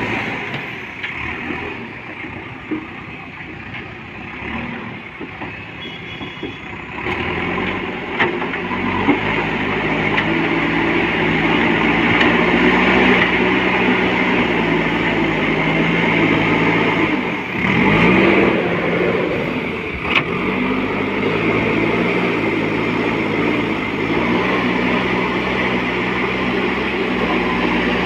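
JCB 4DX backhoe loader's diesel engine running, working under load. It picks up about seven seconds in and revs steadily, with a brief dip and swing in engine speed around eighteen seconds.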